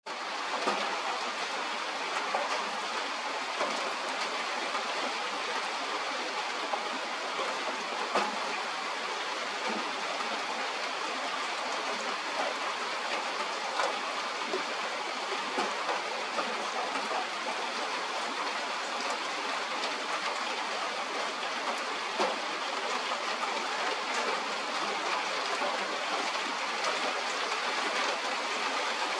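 Steady rain falling, an even hiss with a few sharper drop hits here and there.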